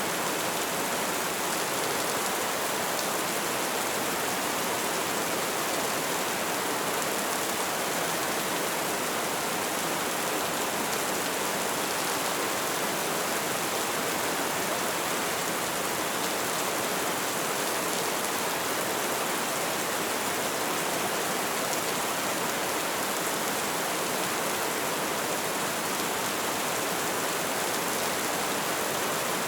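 Light rain falling steadily, an even hiss of many small drops with no distinct individual drips.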